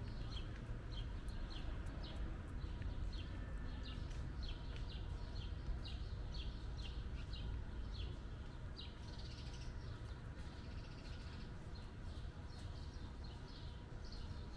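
A small bird chirping over and over, short high downward notes about two a second, with a short break about two-thirds through, over a steady low outdoor rumble.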